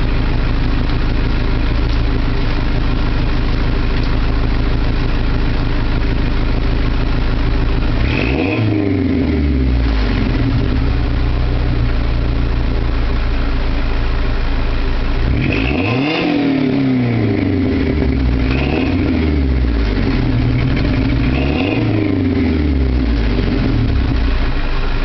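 Ford Ranger 2.3L four-cylinder engine through a Flowmaster 40 muffler, high-flow cat and side-exit pipes, idling steadily and then revved: once about eight seconds in, again harder around sixteen seconds, then two shorter blips, each falling back to idle.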